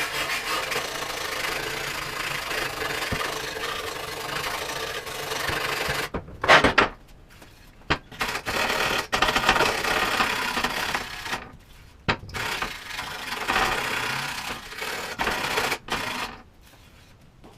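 Stainless steel wire brush scrubbing a cast aluminium bash plate, roughing up the surface to prepare it for TIG welding. The scrubbing comes in three long stretches with brief pauses, and a sharp knock sounds about six and a half seconds in.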